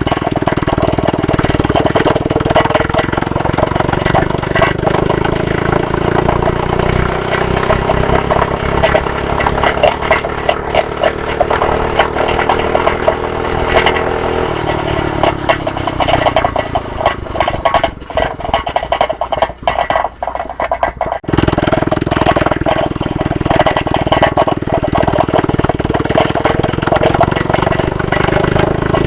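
A small dirt bike's motor running under way: its pitch climbs slowly as it speeds up for about fourteen seconds, then falls away and goes nearly quiet, before coming back abruptly about twenty-one seconds in and holding steady. Rattles and knocks from the ride run throughout.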